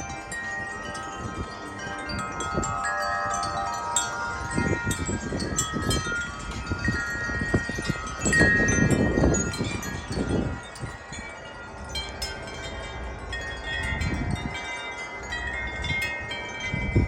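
Metal wind chimes ringing continuously as the wind swings them, many notes overlapping and sustaining. Gusts rumble on the microphone now and then.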